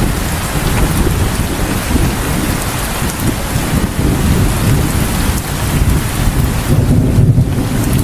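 Heavy rain falling steadily, with a continuous low rumble underneath that grows louder near the end.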